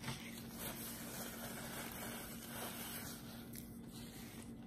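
Faint mouth sounds of someone chewing a bite of cheeseburger with closed lips, soft and wet, over a steady low hum.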